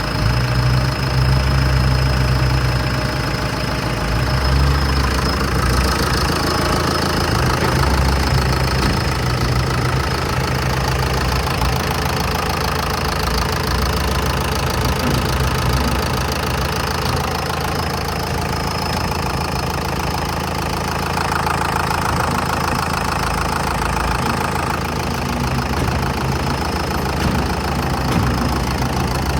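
Used 2006 Mercedes OM904LA 4.3-litre four-cylinder turbo diesel engine idling steadily.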